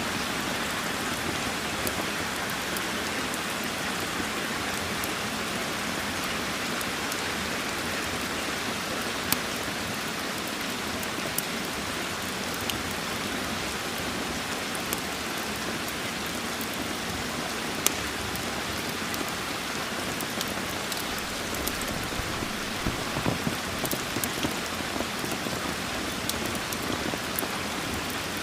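Steady rain with a wood fire crackling: an even hiss of rain broken by scattered sharp pops, which cluster a little before the end.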